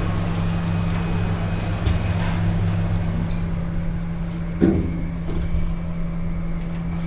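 Steady low rumble with a constant low hum, and a brief sound about four and a half seconds in.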